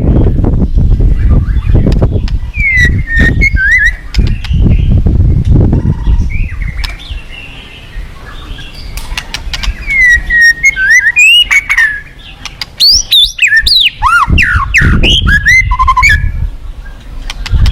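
White-rumped shama singing: bursts of rich whistled phrases with quick rising and falling sweeps, sparse in the first few seconds, then a dense run of song after a lull, loudest a little past the middle. Under it runs a loud low rushing rumble, heaviest at the start and near the end.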